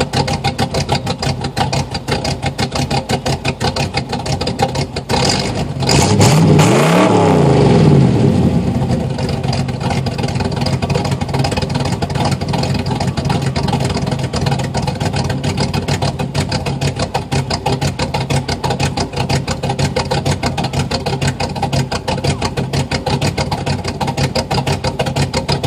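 Exhaust of a cammed 305 V8 with ported heads, single-plane intake and custom exhaust, idling with a steady lope. About six seconds in it is blipped once, the pitch rising and falling back over a couple of seconds before settling back to the idle.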